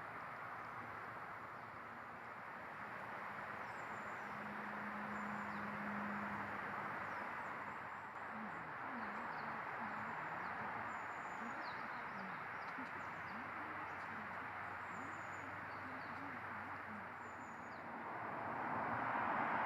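Faint, short, high-pitched bird chirps scattered over a steady hiss of outdoor background noise.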